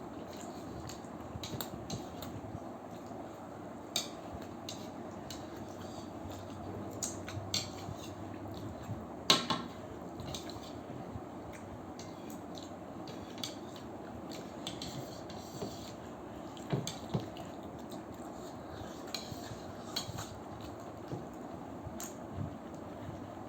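Chopsticks clicking and tapping against dishes while momos are picked up and eaten, scattered sharp clicks over a steady low background noise, with one louder clack about nine seconds in.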